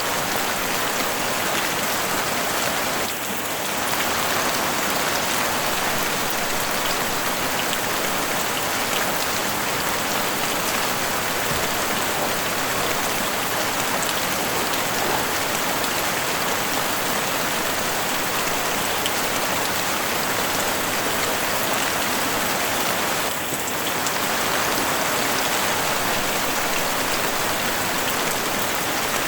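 Heavy rain pouring steadily onto a house roof, a dense even patter that dips briefly twice.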